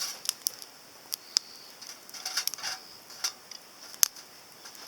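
Irregular sharp crackles and pops from the fire burning in a small folding titanium grill, over a steady high hiss.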